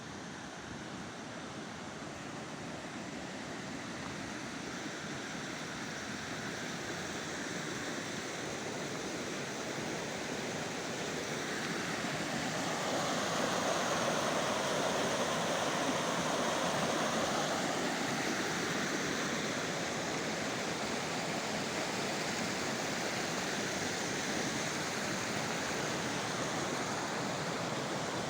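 Steady rush of water from a mountain stream or waterfall, gradually growing louder to a peak about halfway through, then easing slightly.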